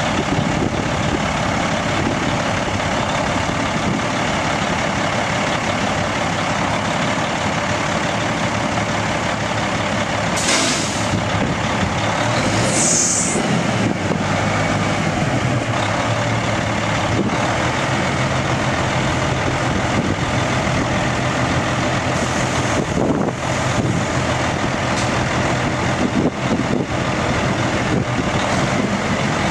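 1998 Freightliner dump truck's Cat diesel engine running steadily, with two short hisses of air released from the truck's air system about ten and thirteen seconds in.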